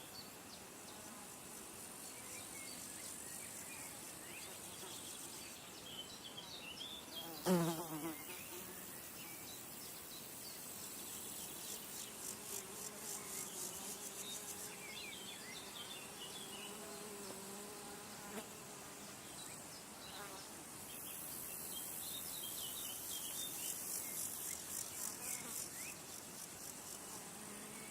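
Insects buzzing and trilling high in pitch in a fast pulsing chorus that swells twice, with faint scattered bird chirps. About seven seconds in, a brief loud sound sweeps steeply downward in pitch.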